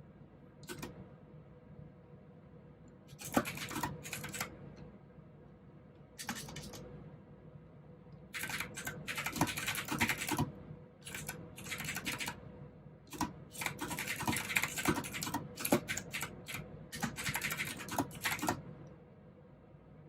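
Typing on a mechanical keyboard with clicky blue switches, in bursts of rapid keystrokes separated by short pauses. The longest run comes in the second half, and the typing stops about a second and a half before the end.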